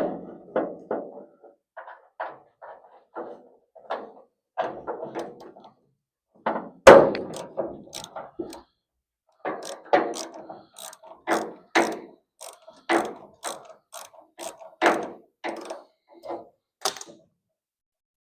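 Hand tools and metal parts clicking and clanking during unbolting of body panels and brackets from a car body: irregular knocks, about one or two a second, with one loud metal clank about seven seconds in. The sounds stop shortly before the end.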